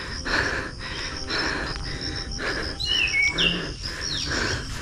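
Birds chirping and calling, with a fast run of high repeated chirps and a pair of quick swooping notes about three seconds in. Soft regular knocks about twice a second run underneath.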